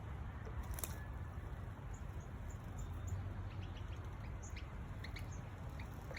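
Small birds calling with short high chirps scattered through, over a steady low rumble, with one sharp click a little under a second in.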